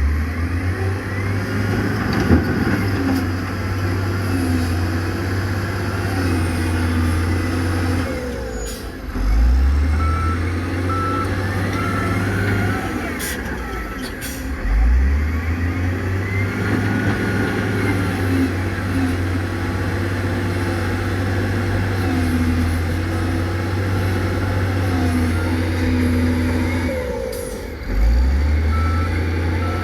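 Heavy diesel construction machinery running at work. The engine drops back briefly three times and picks up again each time. A reversing alarm beeps in short runs in the middle and near the end, with a few sharp clanks.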